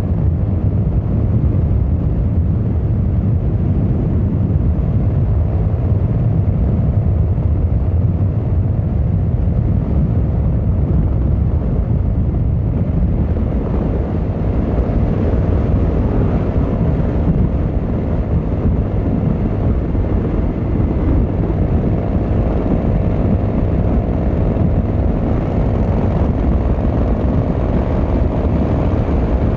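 Yamaha XVZ1300 Royal Star's V4 engine and exhaust running steadily while the bike is ridden at an even pace. A faint whine grows and rises slightly in pitch over the last few seconds.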